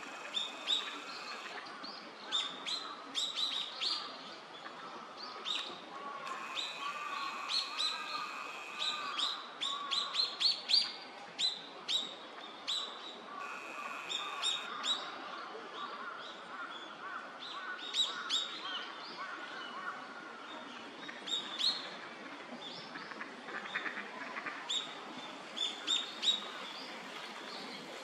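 Small birds chirping, many short sharp calls scattered throughout over a steady background hiss, with a steady high note that comes and goes a few times.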